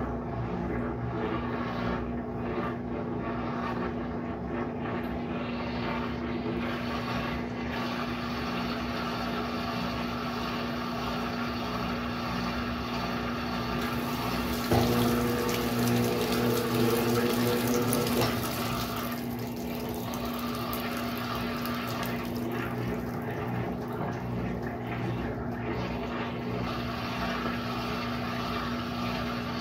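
Brastemp Sexto Sentido 8 kg washing machine running with a steady hum and water sounds. About halfway a click starts a louder stretch of a few seconds with an added higher tone, then the steady hum carries on.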